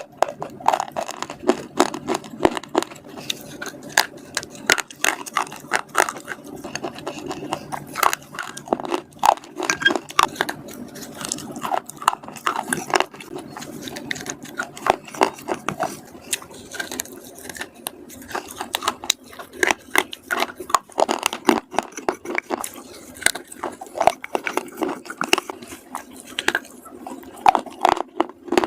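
Close-miked biting and chewing of slate chips and slate grooves: a fast, irregular run of sharp, dry crunches.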